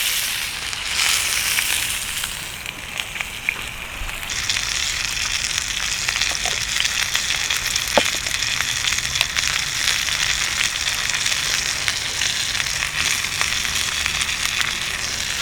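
Food sizzling in a hot pan over an open wood fire: a steady hiss with scattered sharp pops, the loudest about eight seconds in. The hiss grows fuller about four seconds in.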